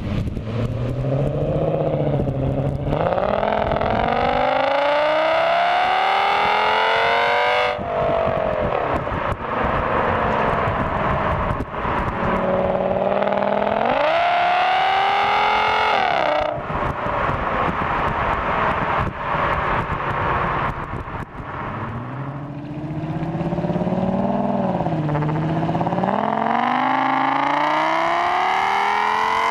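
Audi S6's V10 engine through a Milltek exhaust, accelerating in repeated pulls. The engine note climbs, drops sharply at a gear change about 8 seconds in, climbs again and cuts off about 16 seconds in, then rises once more near the end.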